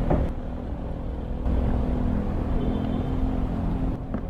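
Motorcycle engine running with a steady low hum and rumble, and a brief click near the end.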